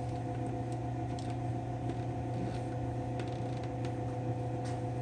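A steady background hum, with a few faint clicks and taps from parts being handled.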